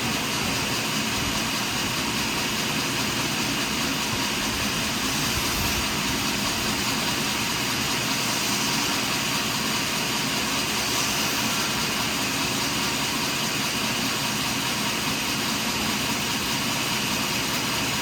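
Sawmill machinery running steadily, a constant mechanical drone with no breaks or changes.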